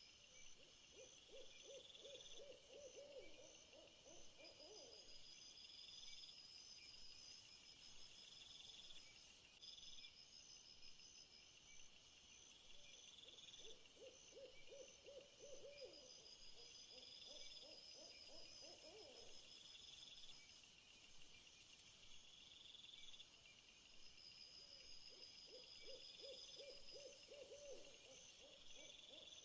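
Faint night ambience: a low trilled animal call of rapid pulses, lasting a few seconds, comes three times about 11 seconds apart over steady high-pitched insect chirring.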